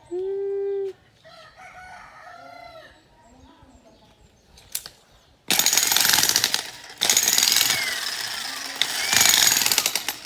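A rooster crows briefly near the start. About halfway in, a jackhammer starts up loud and keeps hammering, with two short breaks.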